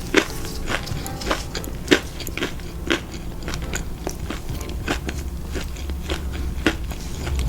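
Close-miked eating: crunchy bites and chewing of fried food, in sharp, irregular crunches about one to two a second, loudest about two and three seconds in.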